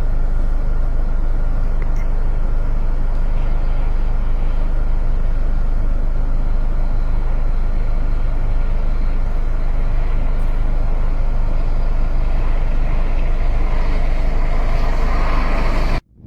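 A motor vehicle's engine running steadily: a constant low drone under an even rush of road and wind noise, which cuts off suddenly near the end.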